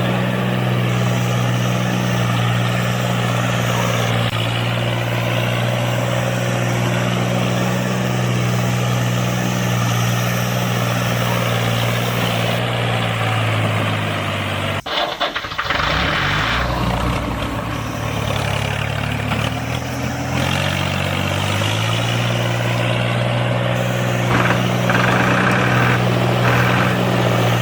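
A motor running with a steady hum. About halfway it cuts off abruptly, then its pitch climbs back up over a few seconds and settles into the steady hum again.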